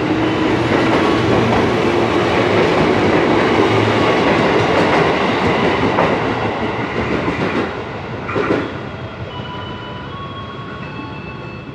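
Electric commuter train running close by along the platform, with steady running noise and wheel clatter over the rails. The noise drops away about eight seconds in, leaving quieter train noise with a faint high whine.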